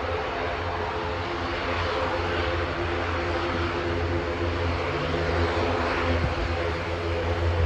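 Airliner engines running with a steady hum and several held tones, with wind rumbling on the microphone.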